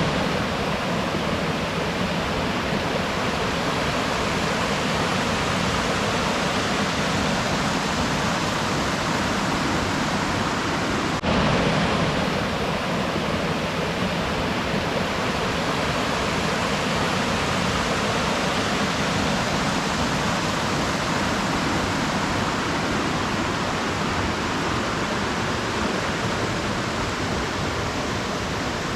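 Waterfall rushing as a steady, even roar of falling water. There is a brief click and a small jump in level about eleven seconds in.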